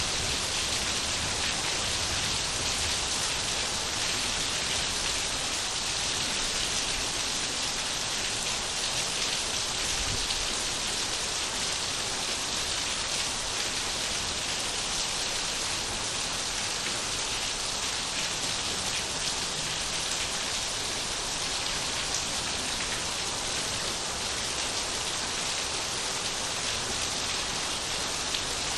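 Steady, even rain falling on surfaces.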